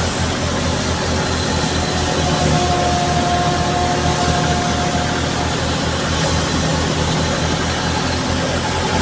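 Tractor engine running steadily with a low, even throb while it drives a wheat thresher. A thin whine rises out of the noise for a few seconds midway.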